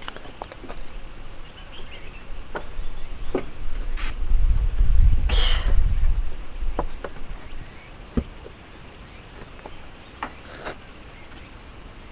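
Insects chirping, a steady high-pitched pulsing trill, with scattered light clicks and knocks. A low rumble rises and falls about four to six seconds in and is the loudest thing heard.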